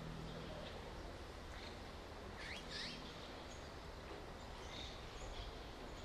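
Azure-winged magpies calling: two quick sweeping calls about two and a half seconds in, with fainter short calls scattered around them, over steady outdoor background noise.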